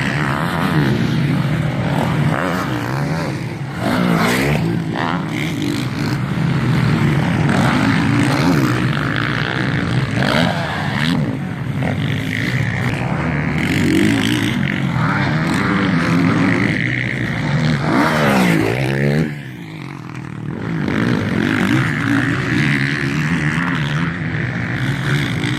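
Motocross motorcycles racing: engines revving hard as bikes pass, with pitch sweeps as riders go by and a brief lull about three quarters of the way through.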